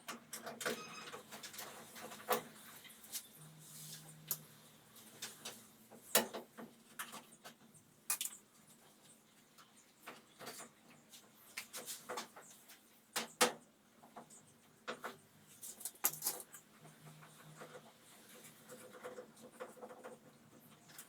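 Irregular light clicks and knocks of hand tools and parts being handled during washing-machine disassembly, with a brief faint hum twice.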